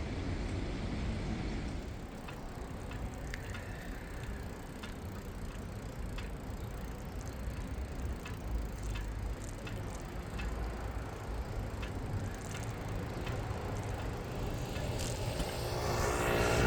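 Bicycle riding along a city street: steady low rumble of tyres and wind with scattered light clicks. Near the end a passing vehicle grows louder.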